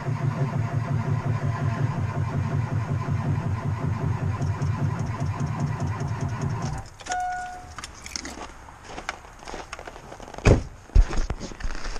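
Car engine being cranked by its starter for about seven seconds without catching: a no-start. It stops abruptly. A short beep follows, then scattered clicks and a couple of loud knocks near the end.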